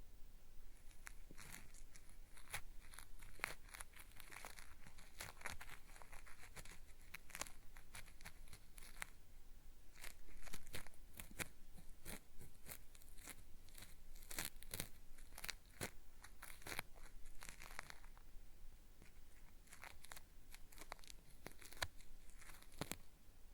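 Cotton swab scraping at the ear of a binaural microphone: a dense, irregular run of gritty, crackling scratches made to sound like earwax being peeled off.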